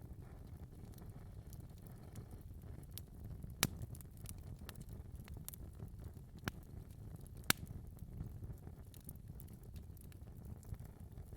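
Fire burning in a fireplace: a steady low rumble with scattered soft crackles, and two sharper, louder pops, one about a third of the way in and one about two-thirds in.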